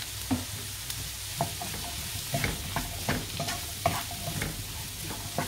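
Chopped shallots sautéing in hot oil with a steady sizzle, while a wooden spoon stirs them, scraping and clacking irregularly against the pan.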